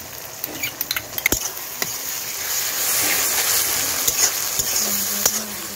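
Onions and ground spice pastes sizzling in hot oil in a metal kadai while a spatula stirs them, with sharp clicks of the spatula against the pan early on. The sizzle grows louder from about two seconds in.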